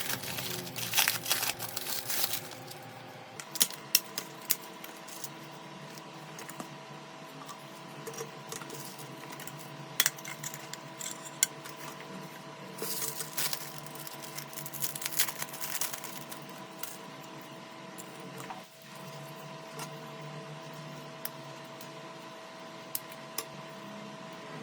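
Scattered small clicks, taps and short scrapes of hand tools and parts being worked on a smartphone under repair, over a steady electrical hum. The clicks come in clusters near the start and again about ten to sixteen seconds in.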